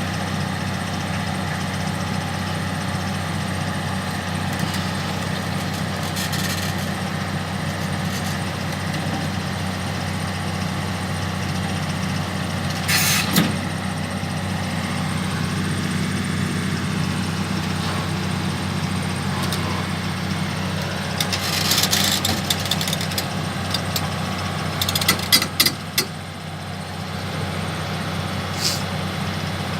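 Heavy vehicle's diesel engine running steadily. A few short, sharp noises break through about halfway, twice more in the second half, and once near the end.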